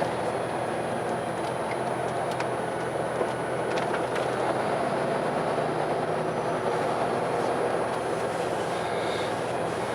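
Steady running noise of a vehicle in motion, an even rumble with a few faint clicks.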